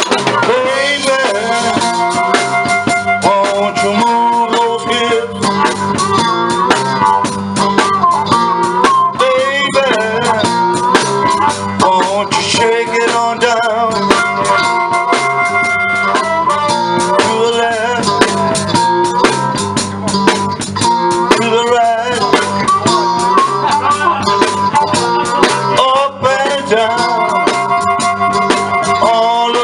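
Live blues band playing an instrumental passage: guitar lines with bending notes over a steady drum beat.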